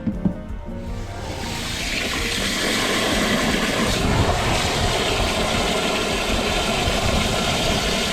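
Water spraying steadily onto washing-machine parts being cleaned, starting about a second in, over background music.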